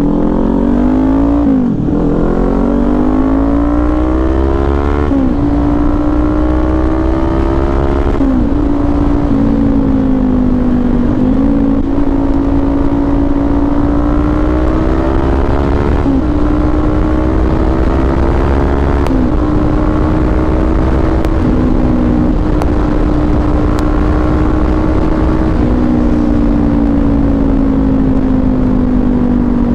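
Kawasaki Ninja 400's parallel-twin engine through an SC Project aftermarket exhaust, under way. The engine note climbs and drops sharply several times with throttle and gear changes, then holds a fairly steady cruising note over a low wind rumble.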